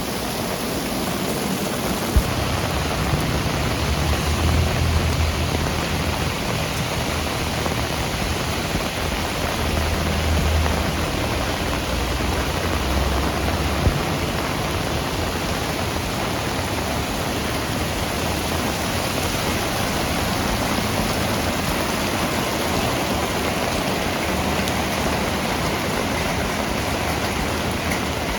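Rain falling steadily. A low rumble comes in about two seconds in and fades out about halfway through, and there are a couple of sharp ticks.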